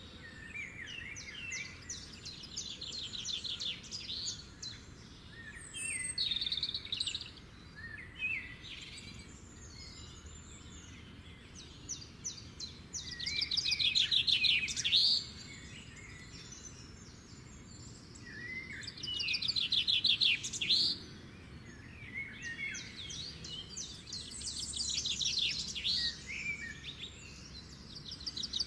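House finches chirping, with recurring bouts of rapid high chattering notes lasting a second or two each: chicks begging to be fed.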